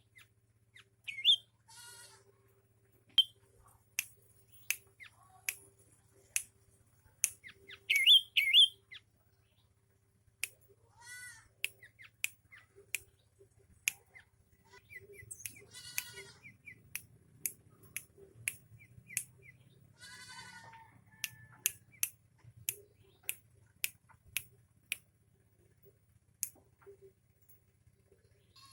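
Sooty-headed bulbul (kutilang) giving short calls every few seconds, the loudest about one second and eight seconds in, among a run of sharp clicks about once or twice a second, over a faint low hum.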